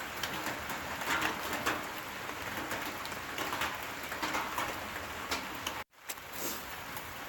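Steady rain falling, with the patter of individual drops ticking through it. The sound drops out abruptly for a moment just before six seconds in.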